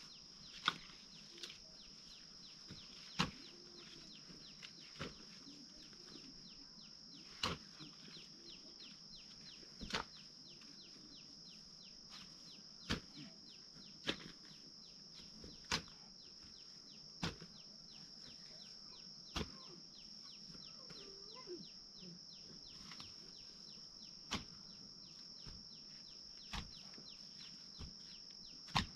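A hoe striking into soil while digging potatoes: a sharp thud about every two seconds, over a steady high-pitched drone.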